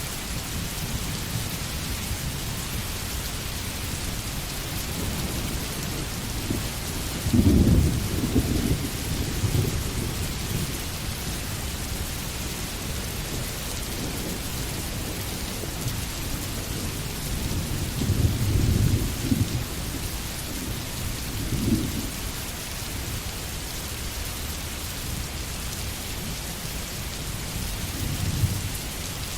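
Steady rain hiss, with low thunder rumbles welling up several times: about a quarter of the way in, twice past the middle, and briefly near the end.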